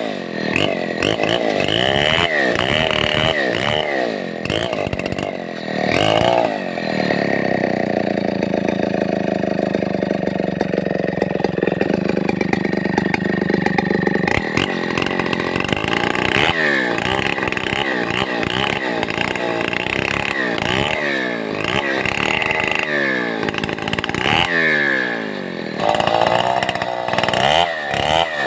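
Stihl 070 chainsaw's big two-stroke engine running. It is revved up and down over and over, and held at high revs for several seconds in the first half.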